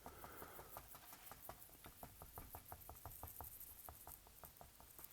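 Faint, quick soft taps of a filbert brush dabbing titanium white acrylic paint onto canvas, about four taps a second, as a cloud is stamped in.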